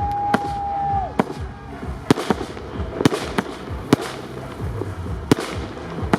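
Fireworks display heard from close by: sharp bangs of shells and fire pots about once a second, with a steady whistle lasting about a second at the start.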